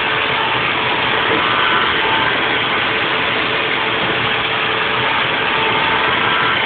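Haas VF4 vertical CNC mill 3D-machining a block: a steady machining noise with a faint steady whine.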